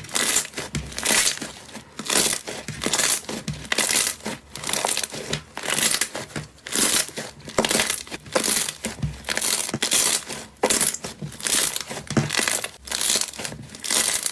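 Slime being squeezed and pressed by hand: a steady run of crackling, crunchy squishes, about one or two a second.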